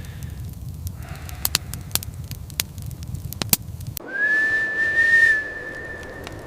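Fire crackling with sharp pops. About four seconds in, this gives way abruptly to a loud, steady high whistle that rises briefly and then holds one pitch.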